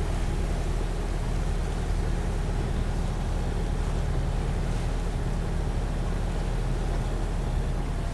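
Boat engine running steadily at constant speed: a low, even drone with a hiss of wind and water over it.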